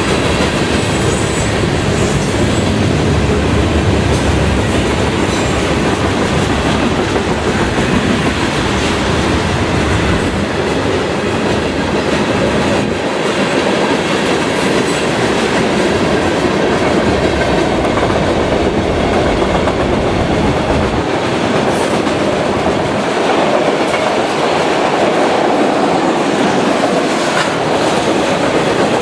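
Freight train cars rolling past at close range: a loud, steady rumble and rattle of steel wheels on rail that goes on without a break, its deepest rumble thinning out about three-quarters of the way through.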